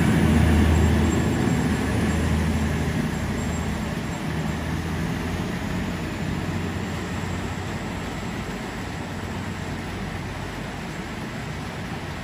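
Double-deck electric trains running through a station: a low hum and rumble, loudest at first and fading over the first few seconds as a train pulls away, then a steady fainter rumble.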